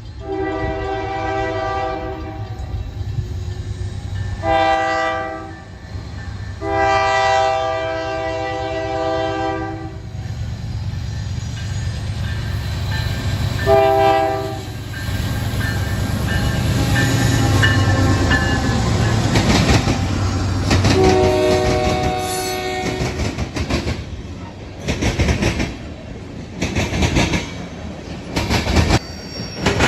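Train horn sounding a series of blasts: three long ones in the first ten seconds, a short one about fourteen seconds in and another a few seconds past twenty. A low engine rumble runs under them. Toward the end the passing train's wheels clack irregularly over the rail joints.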